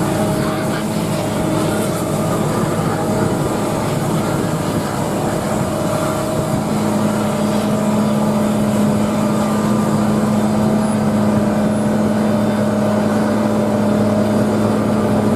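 Steady machinery drone during aircraft de-icing, with a constant hum over a broad hiss; a deeper steady tone joins about seven seconds in.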